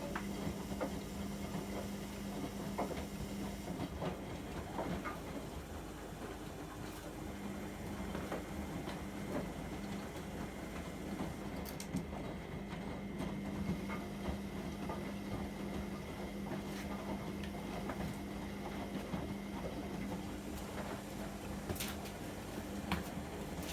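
AEG Öko-Lavamat 73749 front-loading washing machine in a 95°C boil wash: the motor hums as it turns the drum, with scattered small clicks and knocks. The hum stops for a few seconds a few seconds in, then the drum turns again, the usual stop-and-reverse of the wash phase.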